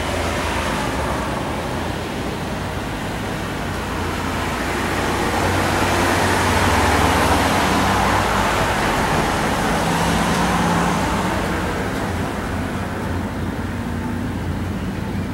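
Road vehicle noise: a steady low engine hum with tyre and road noise that swells over several seconds and then fades.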